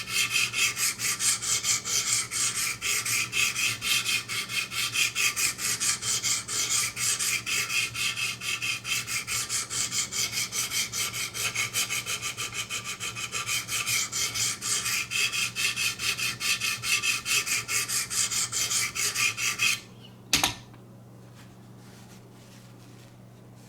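Coarse diamond sharpening stone stroked back and forth along a VG-10 steel knife blade on a guided sharpening system, a rasping rub about three strokes a second: grinding away steel to set a new edge bevel. The strokes stop about 20 seconds in, followed by a single click.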